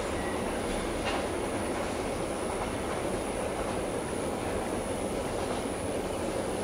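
Long train of steel coal hopper wagons rolling over curved track, a steady rumble of wheels on rail with a faint steady high whine above it.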